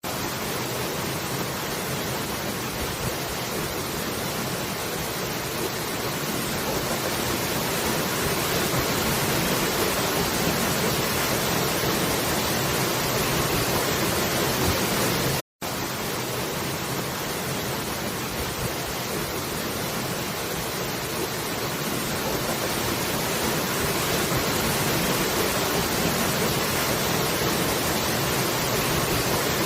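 Waterfall: a steady, even rush of falling water, cut off for a moment about halfway through.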